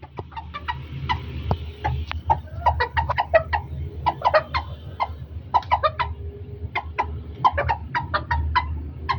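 Birds giving many short, sharp calls, several a second in irregular clusters, over a steady low hum.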